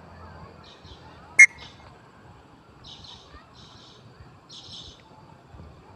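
Birds calling: one short, sharp, loud call about a second and a half in, with faint high chirps scattered through the rest.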